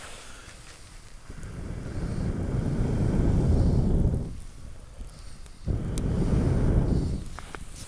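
Someone blowing hard on campfire embers to get them glowing: two long breaths of rushing air, the first building up over a couple of seconds, the second starting suddenly after a short pause.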